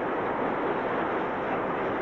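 Freight train running past, a steady rushing noise of wagons rolling on the rails.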